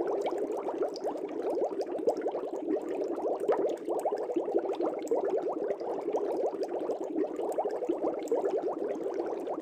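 Air bubbles streaming up through aquarium water in a fish tank, a steady dense bubbling and gurgling with small pops throughout.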